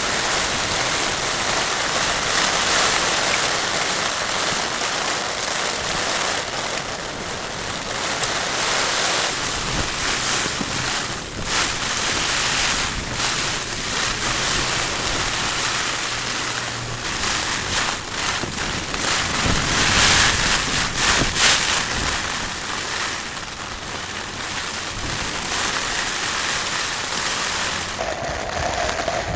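Strong storm wind blowing in gusts that swell and ease, with wind noise on the microphone.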